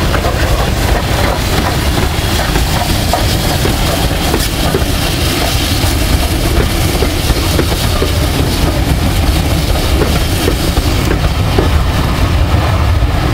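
Steam train running on the line, a loud steady rush with frequent short clicks of the wheels over the rail joints.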